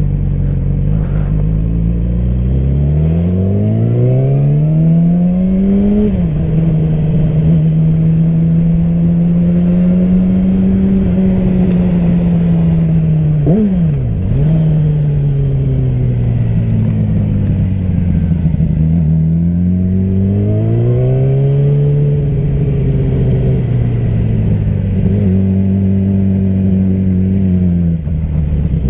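Yamaha R6 inline-four sport-bike engine under way. Its pitch climbs steadily for about six seconds, then drops sharply at a gear change and holds. There is a quick sharp blip of the revs about halfway through, then it eases off and pulls up again, with a haze of riding noise underneath.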